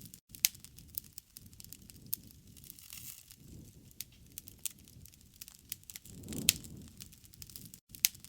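Wood campfire crackling, with scattered sharp pops and a soft low rush of flames that swells briefly about six and a half seconds in.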